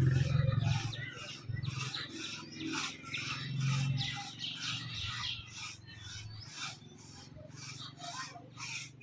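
Many small birds chirping in a dense, continuous chorus of quick, high notes. A low rumble runs under it for about the first second and returns briefly about four seconds in.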